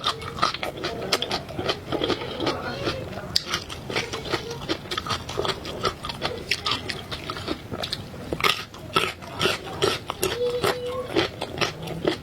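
Close-miked eating of seafood: chewing and mouth sounds, with many short, irregular wet clicks and crackles. A brief hum is heard near the end.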